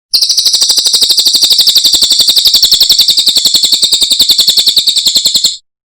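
Cililin bird song: a fast, even trill of high notes, about a dozen a second, held for about five seconds and then stopping abruptly.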